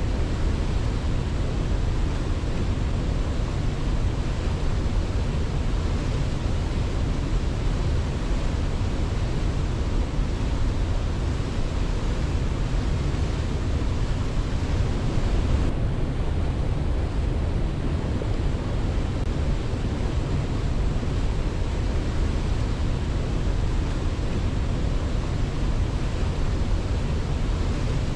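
Waterfall: steady rushing water with a heavy low rumble, without surges or birdsong; the upper hiss thins slightly about halfway through.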